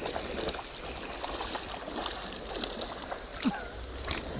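Creek water trickling and gurgling, with scattered small clicks and splashes.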